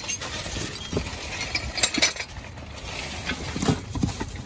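Items being rummaged through and moved in a dumpster: scattered knocks and clinks of hard objects such as dishes and ceramic pieces, with rustling in between.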